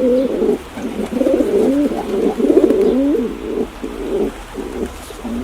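Pigeon cooing: a run of low, rolling coos with short pauses between them.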